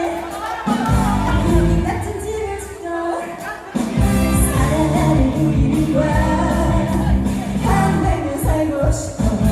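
A woman singing a Korean trot song live over an amplified backing track. The low end of the backing drops out twice early on and comes back in full about four seconds in.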